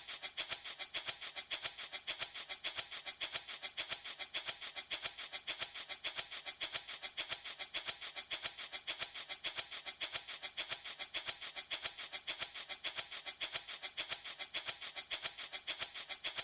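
Handmade baby rattle shaken steadily in a quick, even rhythm, each shake a bright, hissy rattle of beads.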